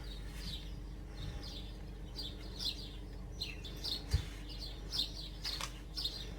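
Small wild birds chirping, many short high chirps repeated in quick succession, with a brief low thump about four seconds in.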